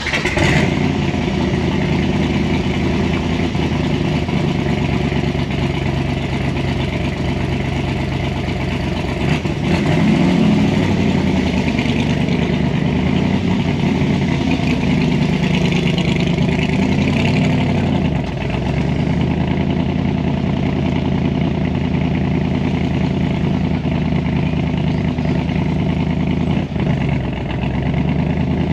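Ford 427 FE side-oiler V8 with Weber carburetors running in a Shelby Cobra replica, mostly steady, with its pitch rising about ten and fifteen seconds in and dropping back about eighteen seconds in.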